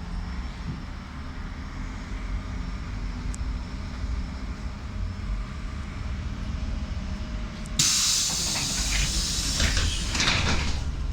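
Trolleybus running with a steady low rumble. About eight seconds in, a sudden loud burst of air hiss with some clatter lasts a couple of seconds, typical of its pneumatic doors opening at a stop.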